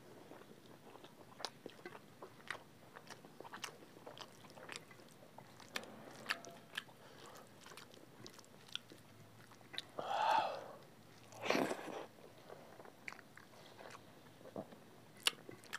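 Two people eating rice with dal and egg curry by hand: chewing and many small wet mouth clicks and smacks, with fingers squishing rice. Two brief louder mouth sounds come about ten and eleven and a half seconds in.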